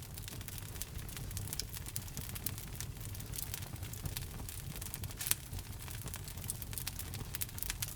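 Fire in a fireplace crackling, with many quick sharp pops over a low, steady rumble; one louder pop about five seconds in.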